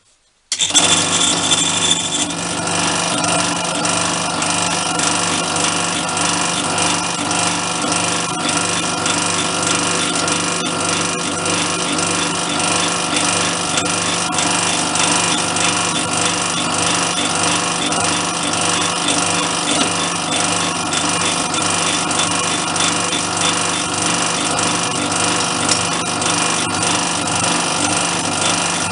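An electric machine tool switching on and running steadily while drilling metal with a small drill bit held in a Morse taper, starting abruptly about half a second in.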